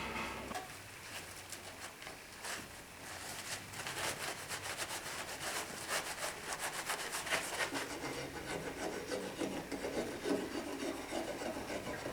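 Wood being worked by hand with an abrasive or cutting tool: a run of quick back-and-forth scraping strokes, then softer rubbing near the end.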